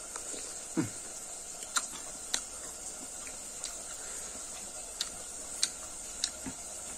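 Close-miked chewing of leaf-wrapped small round fruits, heard as sharp, wet mouth clicks and crunches every second or so, over a steady faint high hiss.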